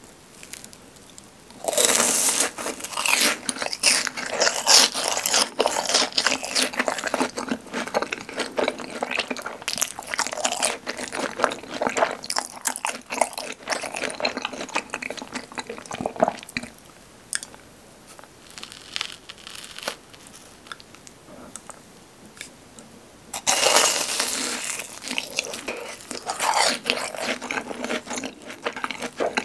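Close-up crunching and chewing of fried cheese balls. A sauce-dipped cheese ball is bitten about two seconds in, with crisp crunching for about ten seconds that fades to softer chewing. A second crunchy bite, into a seasoned Puring cheese ball, comes about six seconds from the end.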